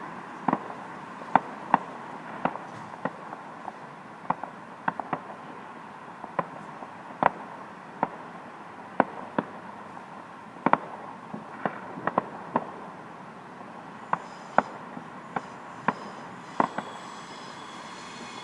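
Fireworks going off: sharp, irregular cracks and pops, about one or two a second, over a steady hiss, with a faint high whine joining near the end.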